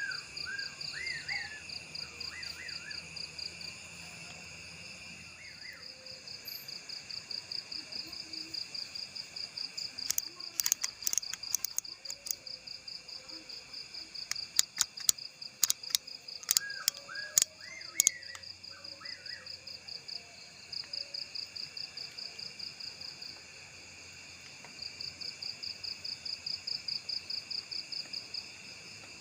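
Night ambience with a steady, fast-pulsing insect trill, over which an unidentified bird gives short whistled notes that rise and fall, in small groups near the start and again about two-thirds of the way through. A run of sharp clicks comes in the middle.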